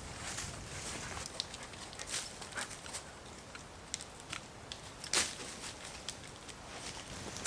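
Footsteps on a woodland floor, with scattered crackles and snaps of dry leaves and twigs underfoot; one louder snap about five seconds in.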